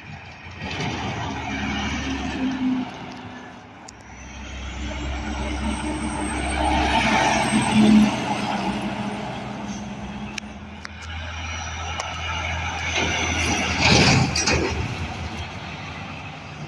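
Heavy trucks and other road traffic passing one after another, each engine and tyre sound swelling up and fading away; the loudest passes come about halfway through and again near the end.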